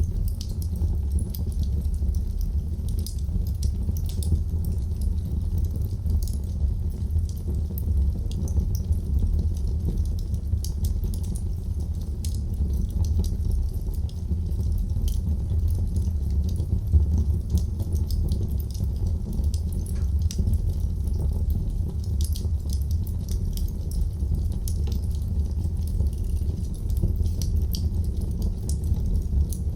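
Wood fire burning in a fireplace: a steady low roar of the flames with frequent small, irregular crackles and pops.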